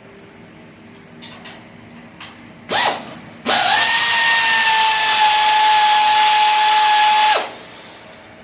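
A handheld power tool gives a brief blip, then runs for about four seconds with a steady high whine before cutting off.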